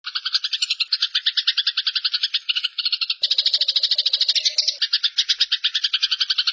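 Eurasian tree sparrow's fighting call: a fast, harsh chattering of about a dozen short notes a second, with a brief break about three seconds in.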